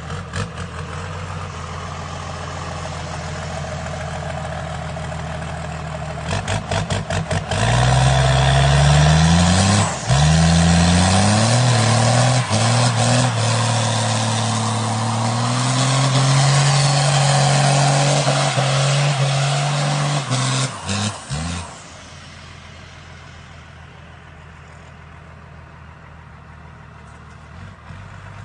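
Truck engine running steadily, then revving and accelerating hard through several gear changes, its pitch climbing and dropping back with each shift. It then holds a loud steady pitch before falling away suddenly to a much quieter steady sound.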